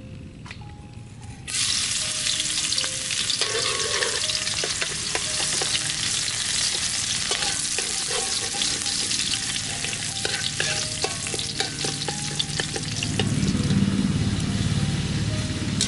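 Food frying in hot oil in a steel wok: a loud sizzle starts suddenly about one and a half seconds in as the ingredients go into the oil. It carries on steadily, with the metal spatula clinking and scraping against the wok as it is stirred.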